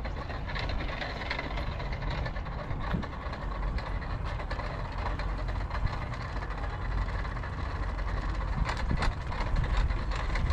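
Tomos Silver Bullet moped's small two-stroke engine running steadily, with wind rumbling on the microphone.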